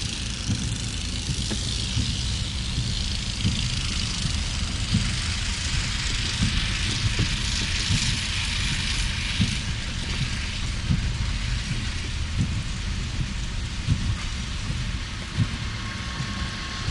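Outdoor street noise on a slushy road: a steady low rumble with irregular low thumps, and a hiss that swells for several seconds in the middle and then fades, as of a vehicle passing on wet snow.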